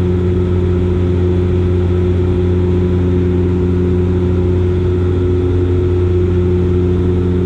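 Steady drone of a Dash 8 Q400's Pratt & Whitney PW150A turboprops and six-blade propellers: a deep, even hum with a stack of steady propeller tones, unchanging in pitch and level.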